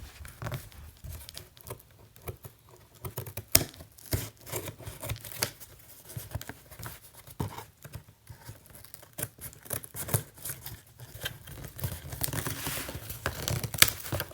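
Cardboard shipping box and its packaging being cut open and handled: irregular snips, rustling and tearing, busier near the end.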